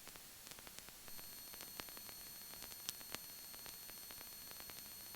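Faint steady hiss with scattered small crackles on the cockpit radio and intercom feed, in a gap between air traffic control transmissions.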